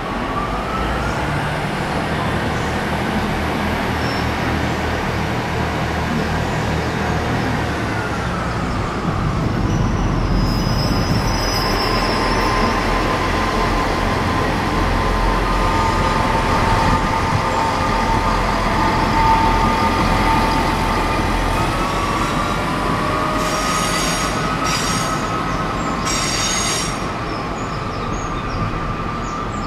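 A diesel multiple unit train on the move, its engine running under a steady squeal of steel wheels on the rails. Sharper, high-pitched wheel squeals come in three short bursts near the end.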